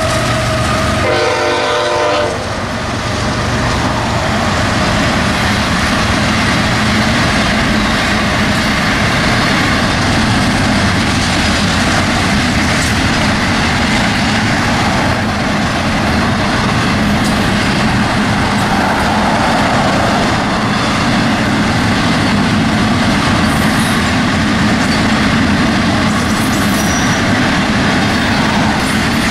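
Florida East Coast freight train passing close by. The GE ES44C4 diesel locomotives sound a short horn blast about a second in, lasting about a second. Then comes the steady rolling noise of double-stack container cars' wheels on the rails, with clickety-clack.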